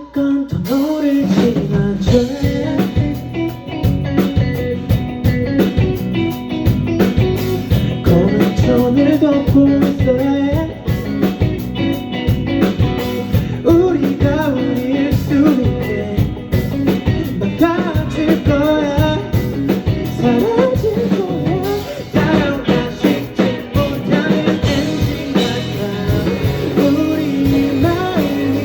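A band playing a rock song with a sung vocal over drums and guitar.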